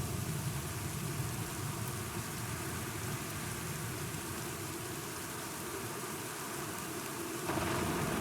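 Steady rain, with a low rumble of thunder dying away over the first few seconds. The rain gets louder near the end.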